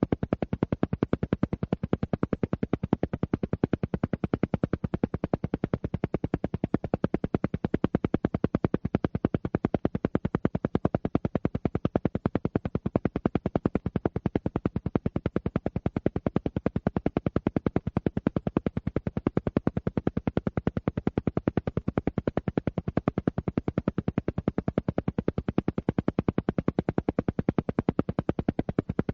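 An alpha-wave isochronic pulse track: a rapid, perfectly even stream of short sound pulses, many a second, with a low, full-bodied tone, repeating without change.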